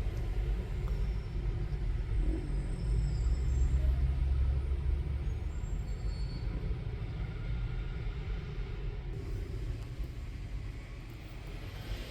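Garbage truck engine running with a low rumble that swells a few seconds in and then eases off.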